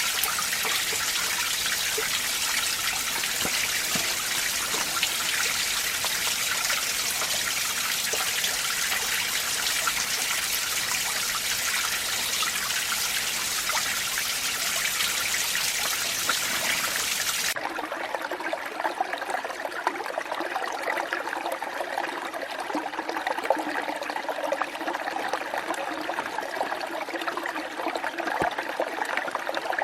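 Winter mountain stream running over rocks: a steady, bright rush of water that switches abruptly a little over halfway through to a lower, more uneven trickling flow.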